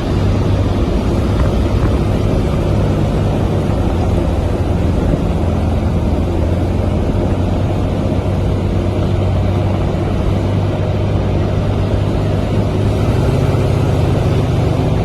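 Truck engine and exhaust droning steadily at highway speed, a deep low hum over road noise; the pitch rises a little about thirteen seconds in.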